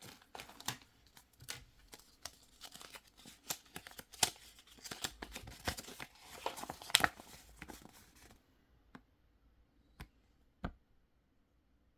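Crinkly plastic packaging and small plastic toy parts being handled: a dense run of rustles, tears and clicks, then a few separate clicks near the end.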